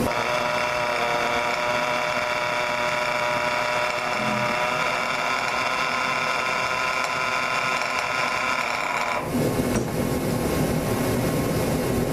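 The small glow-plug engine of a micro mini pulling tractor, being worked to get it started and running: a steady, high-pitched mechanical whine with many even overtones. About nine seconds in it gives way to a rougher, noisier sound.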